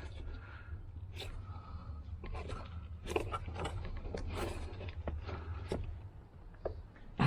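Scattered small clicks, taps and short scrapes of hands working a plastic fuel-line quick-connect fitting loose from a car's fuel pump assembly, over a steady low hum.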